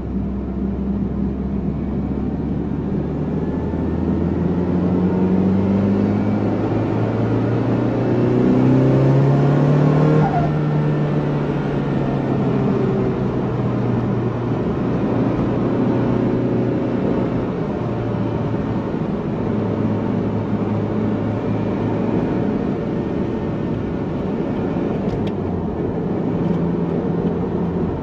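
A Nissan 180SX's turbocharged four-cylinder engine running through an aftermarket Blitz muffler. The revs climb over several seconds, drop back sharply about ten seconds in, and then the engine runs steadily at lower revs.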